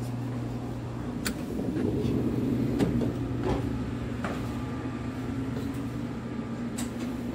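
Steady low hum and rumble inside an electric limited express train, heard while walking through a passenger car and the gangway between cars, with a few sharp clicks and knocks along the way.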